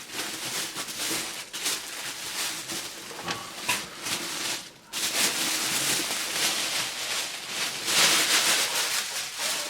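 Helmet packaging being handled and unwrapped, a steady rustling and crinkling that grows louder about halfway through.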